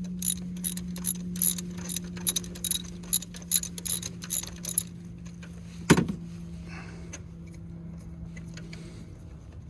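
Ratchet wrench clicking in quick strokes, about four clicks a second, turning a spark plug socket on its extension; it stops about five seconds in and a single knock follows, over a steady low hum.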